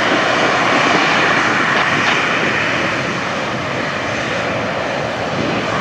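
Embraer 190 jet airliner's twin turbofan engines at take-off power: a loud, steady jet noise that eases slightly in the second half.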